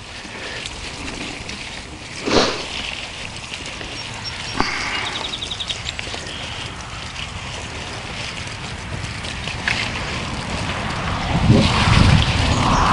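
Wind on the microphone with outdoor handling noise and two sharp knocks. Near the end, liquid begins pouring and splashing: compost tea being poured onto the corn.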